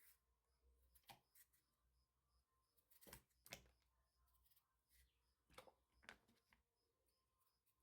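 Near silence, broken by a handful of faint, scattered clicks and taps.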